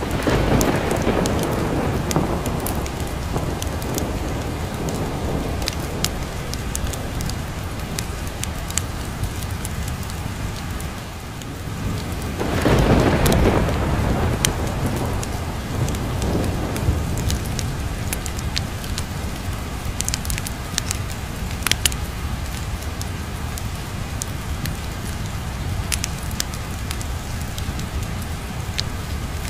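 Steady heavy rain with thunder rumbling twice: one roll right at the start that fades over several seconds, and a louder one about halfway through. Sharp crackles of a fireplace fire pop here and there over the rain.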